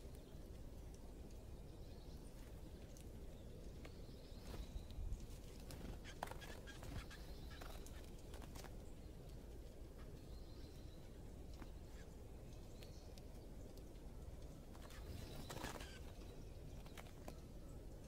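Faint outdoor ambience: a steady low rumble with a few short, high bird chirps scattered through, and a few brief clicks, the plainest about two-thirds of the way in.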